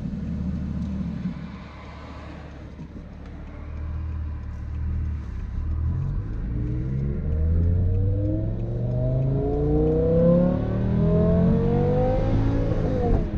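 BMW E60 M5's V10 engine under acceleration: a low, steady drone at first, then from about four seconds in its pitch climbs and the sound grows louder for several seconds.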